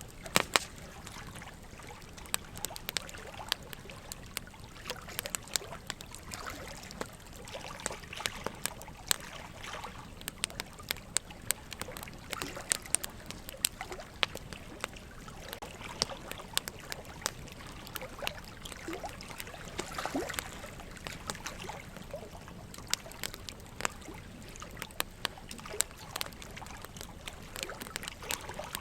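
Wood fire burning in a fireplace, crackling with frequent irregular sharp pops, over a steady trickle of running water.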